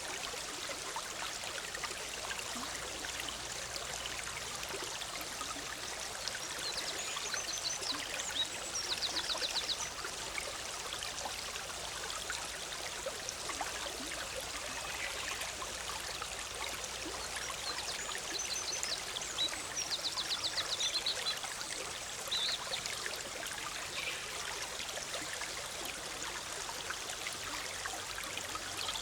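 A forest river bubbling and rushing over rocks steadily, with a songbird singing short, rapid, high trills several times, about seven seconds in, nine seconds in and around twenty seconds in.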